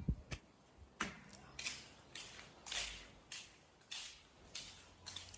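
A series of short scraping or brushing strokes, about two a second, starting about a second in.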